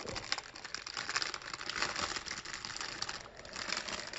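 Dense, irregular crackling and clicking of plastic packaging being handled as small plastic model parts are taken out of it.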